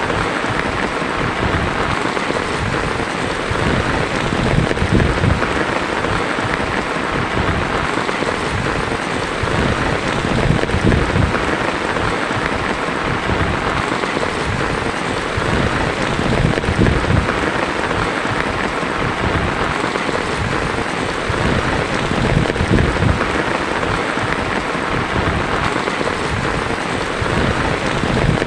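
Heavy rain drumming steadily on a tin roof, with low thunder rumbles swelling and fading about every six seconds.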